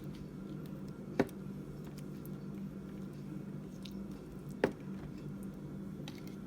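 Barbecue sauce being brushed onto baby back ribs: a soft, wet squishing, with two sharp clicks a few seconds apart, over a steady low hum.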